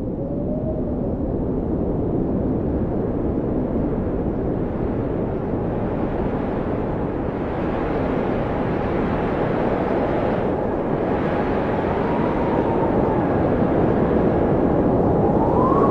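Blizzard wind blowing in a steady, deep rush, with faint howling tones that rise and fall in pitch; it grows a little louder toward the end.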